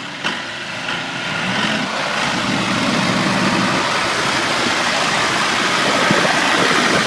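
Heavy vehicle engine running, getting louder over the first couple of seconds, with a single click shortly after the start.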